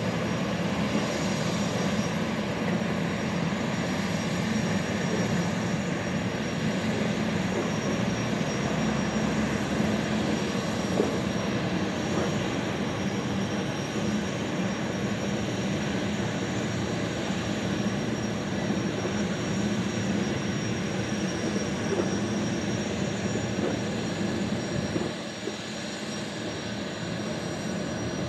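Boeing 929 jetfoil's gas turbines running: a steady roar with a thin high whine over it, easing slightly in level about 25 seconds in.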